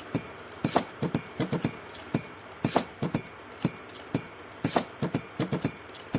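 Irregular sharp clicks and light taps, a few each second, over a faint steady hiss.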